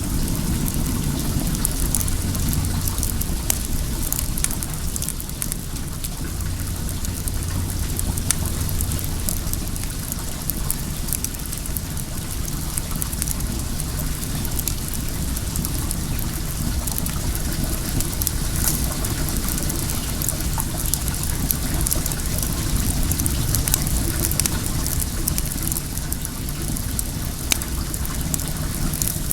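Wood fire crackling, with many small sharp pops, over the steady rush of flowing well water and a low rumble underneath.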